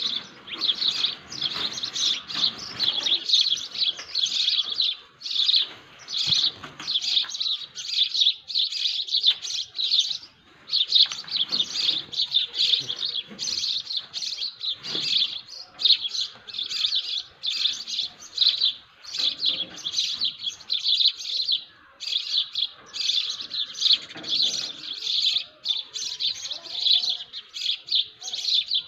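Many small birds chirping in a continuous, busy chorus of rapid high chirps, with only brief pauses.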